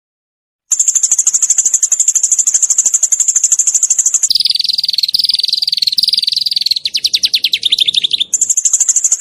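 Small songbird singing rapid-fire 'shooting' trills: a fast, very high trill, switching about four seconds in to a lower, buzzier trill and then a quick run of repeated notes, with a short break before the high trill starts again near the end.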